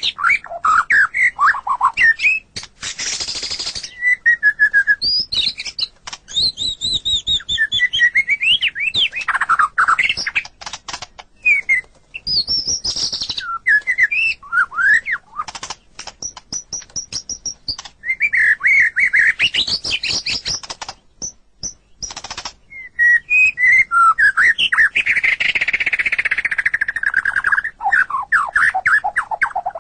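White-rumped shama (murai batu) singing a long, varied song of rich whistled phrases that rise and fall, broken up by harsh rasping notes and quick runs of clicks, with short pauses between phrases.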